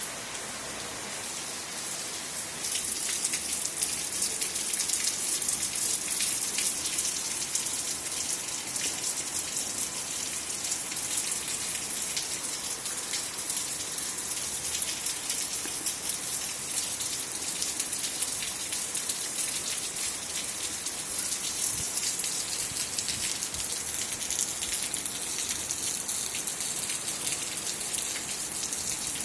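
Steady rainfall with many individual drops pattering on surfaces, growing heavier about two and a half seconds in and then holding steady.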